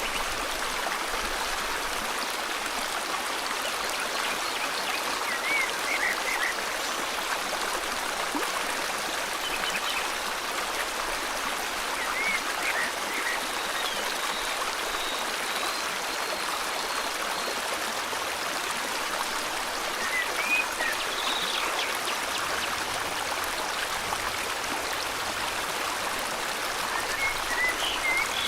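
River water flowing steadily, a continuous rushing hiss, with faint bird chirps now and then.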